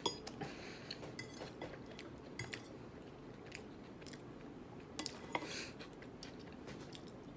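Eating salad: cutlery clicks against a dish a few times, with chewing and a brief crunch in between.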